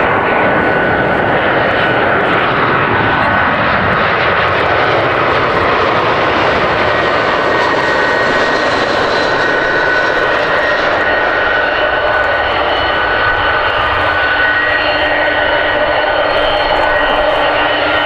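Airbus A319-100 jet engines on landing, running loud and steady with high whining tones. A whine falls steeply in pitch over the first four seconds as the plane goes past.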